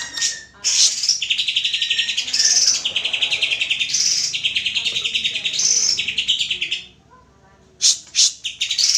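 Greater green leafbird (cucak ijo) singing: long, rapid chattering trills with brighter high notes mixed in. It breaks off briefly near the end, gives two sharp notes, then starts trilling again. This is a bait song (pancingan) of the kind played to set a kept leafbird singing.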